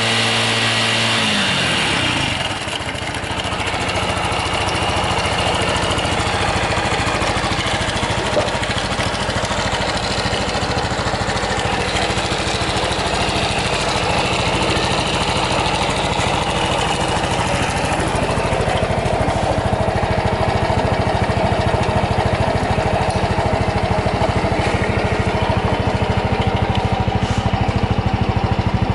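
Honda Super Cub 110's single-cylinder four-stroke engine. A higher steady whir falls away about two seconds in, then the engine idles with an even, steady beat and no abnormal noise.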